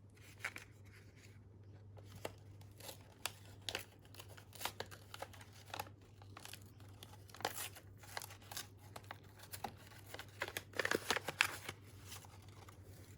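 Crinkling and rustling of small craft packets and bags being handled, a scatter of sharp crackles that gets busier about eleven seconds in, over a steady low hum.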